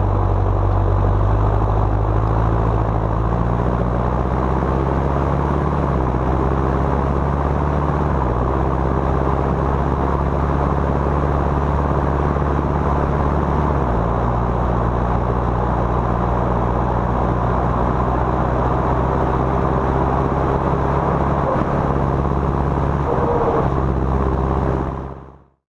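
John Deere 6230 tractor's four-cylinder turbocharged diesel engine running under load while hauling a loaded trailer. The engine note shifts in steps a few times as the engine speed changes. The sound fades out near the end.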